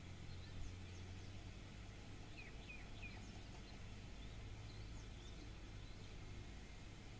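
Faint outdoor ambience: scattered short, high bird chirps, three in quick succession about two and a half seconds in, over a steady low hum.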